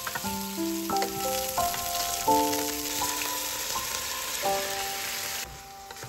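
Hot oil sizzling as cauliflower and carrot pieces fry in a steel pot, cutting off suddenly about five and a half seconds in. Light melodic background music plays throughout.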